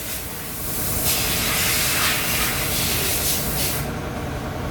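Toyota Hilux 2GD four-cylinder turbodiesel idling, with a steady hiss that starts about a second in and stops almost three seconds later.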